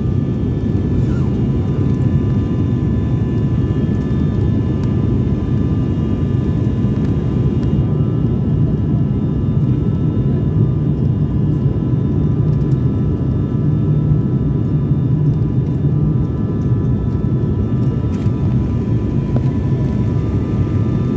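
Steady cabin noise of an airliner in flight: a dense, even low drone with a few faint steady higher tones running through it.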